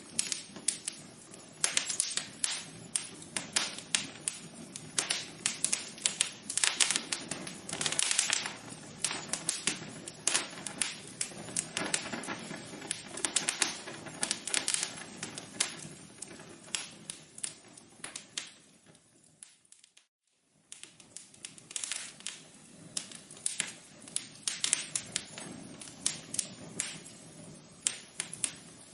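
Wood fire crackling in a fireplace: irregular sharp pops and snaps over a low steady rush. About two-thirds of the way in it fades to near silence for a moment, then the crackling comes back.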